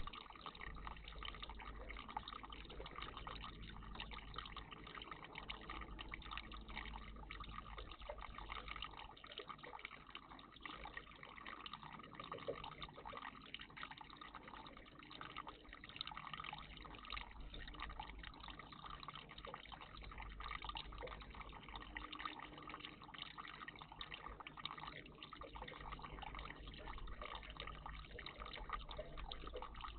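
Water trickling steadily and faintly in a garden bird bath.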